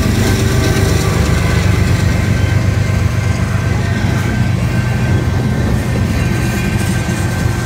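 Freight train cars (covered hoppers and tank cars) rolling past close by: a steady heavy rumble of steel wheels on rail, with a thin steady high ring over it.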